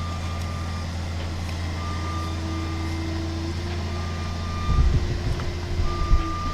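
Truck engine running steadily with a back-up style alarm beeping, one short beep about every two seconds. About two-thirds of the way through, irregular heavy low thumps and rumbling come in over it.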